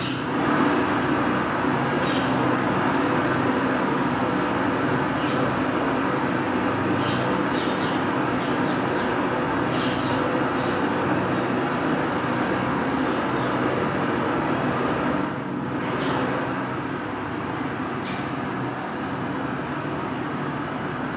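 Steady machine running noise with a low hum, even and unbroken, easing slightly about fifteen seconds in.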